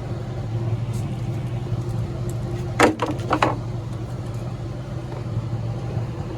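A vehicle engine idling with a steady low hum, broken about three seconds in by a quick run of three or four sharp knocks or clatters.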